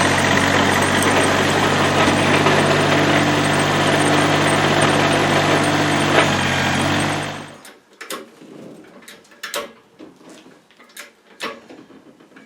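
Massey Ferguson GC2300 sub-compact tractor's three-cylinder diesel running steadily as it is backed into the shop, cutting off about seven and a half seconds in. After that come a few scattered light knocks and clinks.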